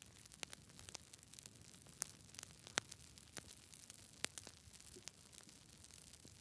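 Campfire crackling: irregular sharp snaps and pops over a faint steady hiss, with the loudest pops about two, three and four seconds in.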